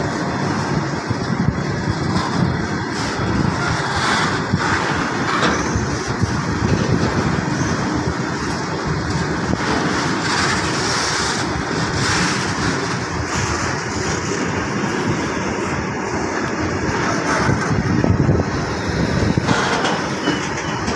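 Open-top freight wagons of a long goods train rolling past at close range: a steady rumble and clatter of steel wheels on the rails, with a few brief metallic clanks.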